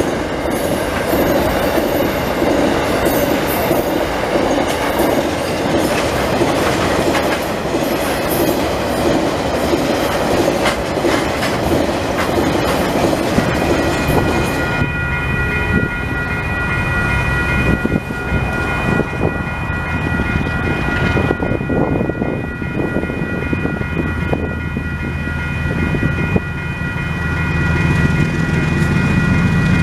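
A long freight train of hopper wagons rolling past, its wheels clattering over the rail joints. About halfway through it gives way to several steady high tones held together, and a low rumble builds near the end.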